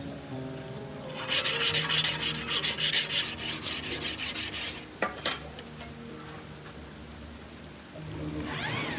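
Quick back-and-forth rubbing strokes, several a second for about three and a half seconds, most likely on the rusty sword blade. Two sharp clicks follow about five seconds in, over background music.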